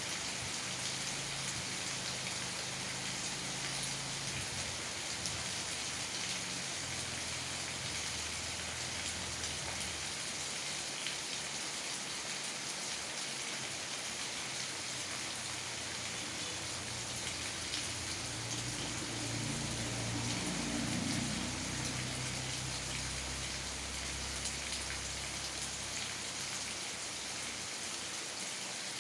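Steady rain falling, an even hiss with scattered drop ticks. A low rumble swells briefly about two-thirds of the way through.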